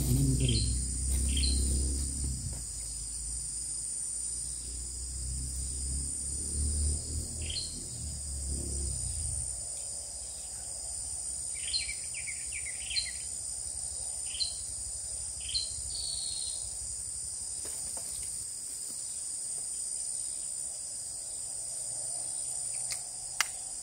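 Steady high-pitched drone of insects, crickets or similar, with short falling bird chirps scattered through the middle. A low rumble fades out about ten seconds in.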